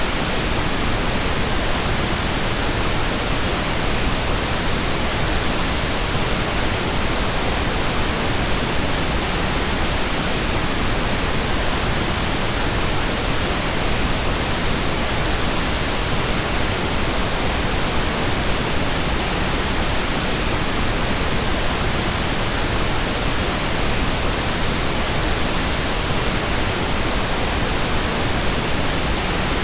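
Steady, unchanging pink noise: an even hiss spread across the whole range of pitch, with no breaks or events.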